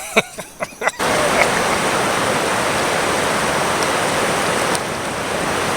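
Rushing water of river shoals, a loud steady rush that starts abruptly about a second in, after a few sharp knocks.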